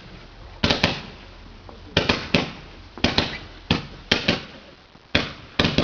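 Garden fireworks going off in a series of sharp cracks and bangs, often two or three close together, about once a second.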